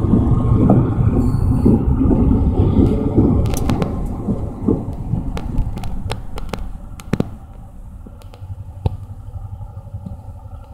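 Amtrak GP38-2 diesel locomotives and a towed Acela power car rolling past: a heavy low rumble of engines and wheels with a run of sharp clicks from the wheels on the rails. It fades steadily as the train moves away.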